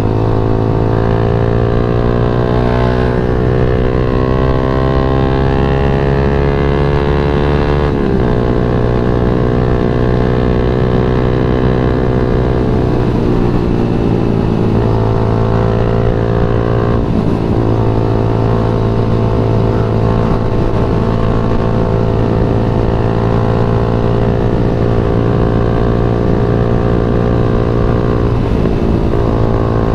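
Yamaha MX King 150's single-cylinder four-stroke engine pulling while riding. The pitch rises steadily for about eight seconds, drops sharply at a gear change, then holds fairly steady with a few brief dips as the throttle is eased.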